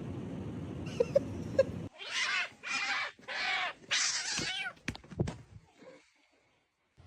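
Cat yowling: four loud, drawn-out calls in quick succession, their pitch bending. Before them there is steady background noise with a few short squeaks, and a couple of sharp clicks follow.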